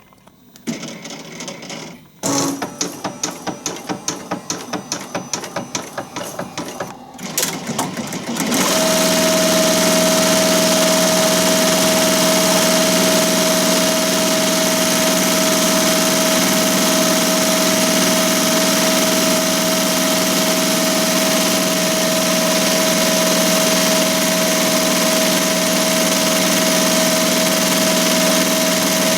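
ZSK Sprint 10-needle commercial embroidery machine starting up: a few seconds of slower, rhythmic stitching pulses. About eight seconds in it settles into steady full-speed stitching, rated at up to 1,200 stitches per minute, with a constant humming tone.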